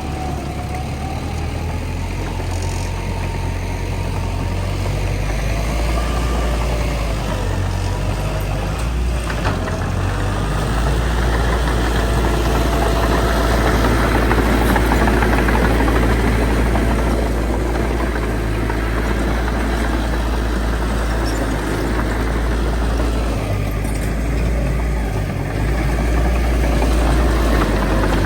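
Heavy diesel engine of earthmoving machinery running steadily with a deep rumble. It grows louder under load about a third of the way in, eases briefly, then builds again near the end.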